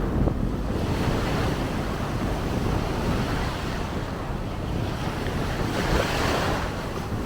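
Ocean waves washing on the beach, with wind buffeting the microphone; a wave swells up and breaks about six seconds in.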